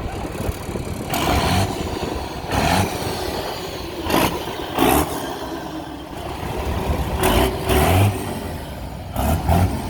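Cars and trucks driving past, engines accelerating as they pull away, with several short surges in loudness over a steady low rumble.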